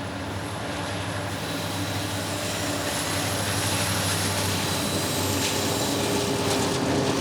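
EMD SD70MAC diesel-electric locomotive leading a loaded coal train, its diesel engine running with a steady low drone over the noise of the train, growing slightly louder.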